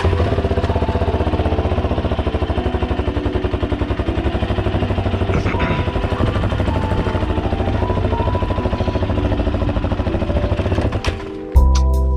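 An engine running steadily with a fast, even pulsing. Near the end a louder sound with a strong low hum takes over.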